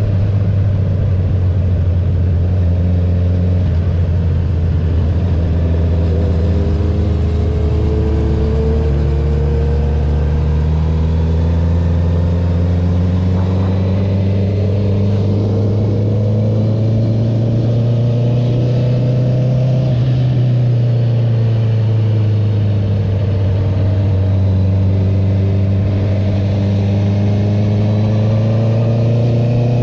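2021 Honda CB650R's inline-four engine through an Akrapovic titanium full-system exhaust with the dB killer removed, running under steady throttle. Its pitch climbs slowly for about twenty seconds, dips briefly, then climbs again.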